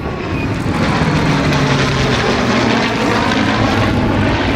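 An aircraft flying past: a loud, steady roar that builds over the first second, holds, and eases off near the end.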